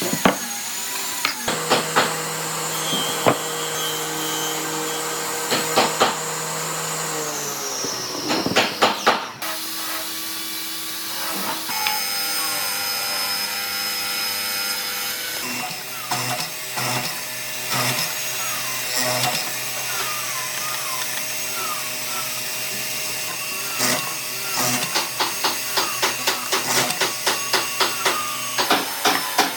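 Woodworking power tools running with a steady motor whine, with scattered knocks. About eight seconds in, one machine's whine falls in pitch as it winds down, and near the end comes a run of quick knocks, a few a second.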